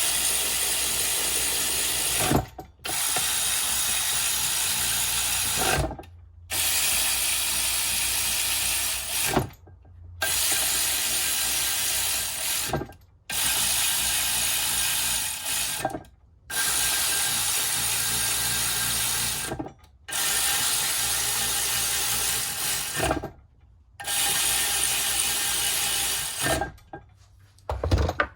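A workshop tool running in about eight bursts of roughly three seconds each, with short pauses between, while a BMW E46 M3 differential is being reassembled.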